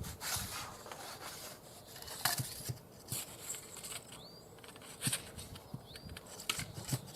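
Handling noises of the Kayacat's mast being lowered and taken apart: scattered clicks, knocks and rubbing. A short high rising chirp sounds twice in the second half.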